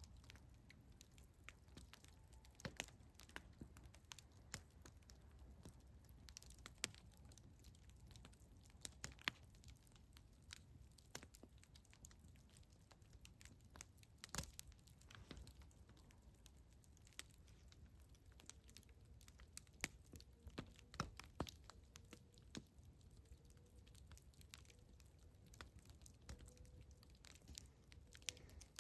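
Wood campfire crackling: sharp pops and snaps at irregular intervals over the low, steady rumble of the burning fire. A faint thin steady note sounds in the second half.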